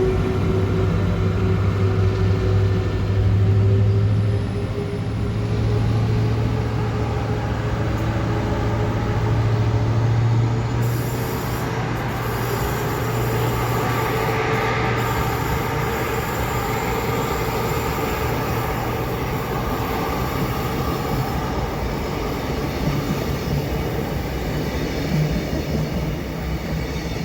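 Train running, with a steady low hum that weakens after about ten seconds over a continuous rumble.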